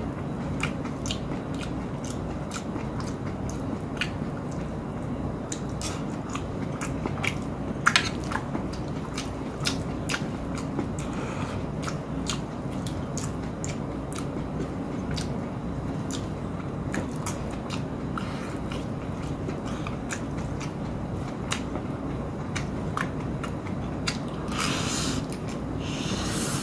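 Close-up mouth sounds of a man biting and chewing a pan-fried flour pancake, with scattered sharp clicks from metal chopsticks against a stainless steel pan, over a steady low hum.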